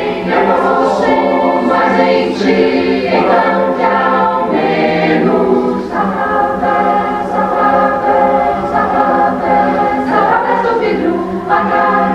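Madrigal choir singing, several voices in held chords that change every second or so.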